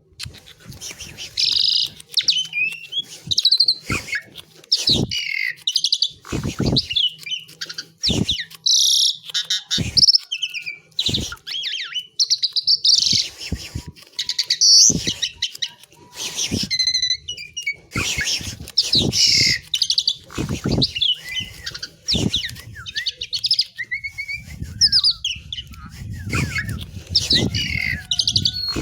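Asian pied myna singing a long, varied run of short whistles, squeaks and chattering notes, with sharp clicks between phrases. A low rumble comes in near the end.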